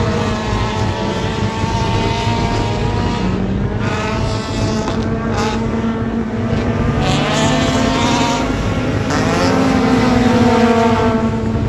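Dirt track race car engines running at speed, more than one engine heard at once. Their pitch rises and falls, climbing twice in the second half as the cars accelerate.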